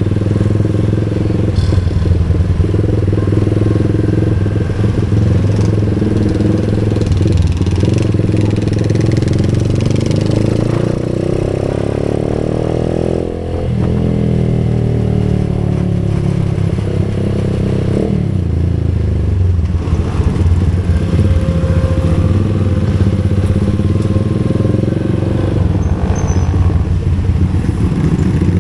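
Motorcycle engine running under way, rising in pitch as it accelerates, with a brief drop about halfway through as it shifts up a gear, then climbing again.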